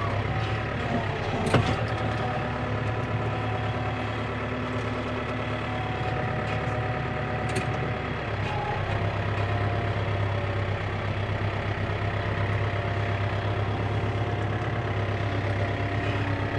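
Farm tractor's diesel engine running steadily, with one sharp knock about a second and a half in.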